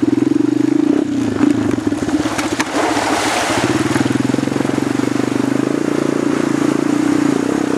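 Small single-cylinder 250 ATV engine running close by at a steady, even pitch.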